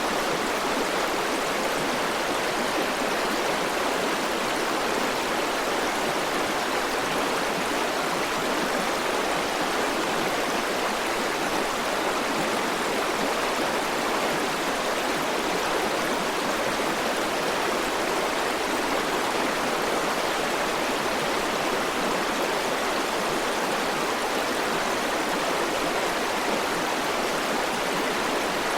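River water rushing and burbling over rocks in a steady, unbroken rush.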